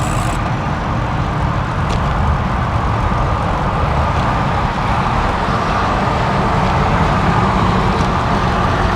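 Steady road noise heard from a moving bicycle: wind on the microphone and motor traffic going by, growing slightly louder toward the end.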